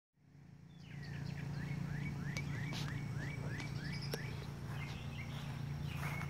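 A songbird sings a run of about eight quick, repeated down-slurred whistled notes, over a steady low hum, with a few faint clicks.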